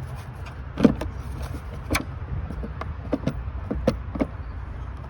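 Sharp plastic clicks and knocks from the air filter housing (airbox) of a 2006 Lexus ES330 being lifted and worked loose by hand to reach the filter. There are about nine, irregularly spaced, the loudest about a second in, over a steady low rumble.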